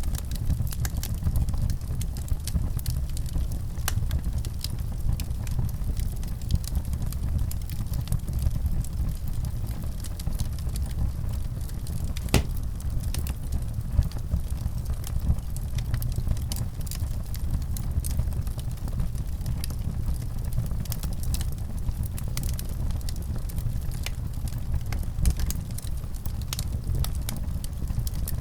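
Wood fire burning in a fireplace: a steady low rumble of the flames with frequent small crackles and pops, one sharper pop about 12 seconds in.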